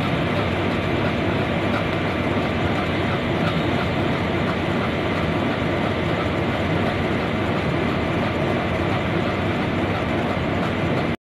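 Steady running noise of a departing express train's LHB passenger coaches rolling away over the tracks.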